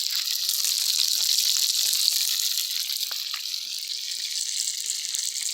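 Wood fire burning with a steady hiss and scattered small crackles.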